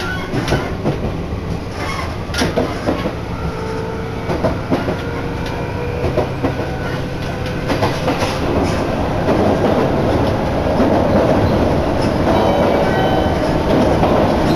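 Abukuma Express electric train running, heard from inside the carriage by an open window: a steady rumble with wheels clicking over rail joints, growing louder and denser about halfway through.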